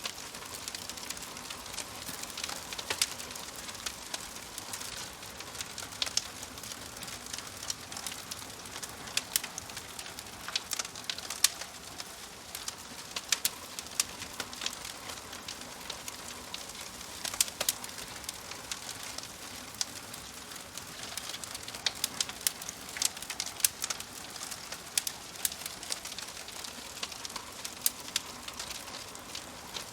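Wood fire crackling in a fireplace: a soft hiss with frequent sharp snaps and pops at irregular intervals.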